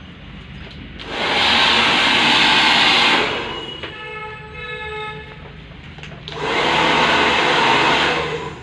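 Hand-held hair dryer blowing in two bursts of about two seconds each, with a steady whine between them.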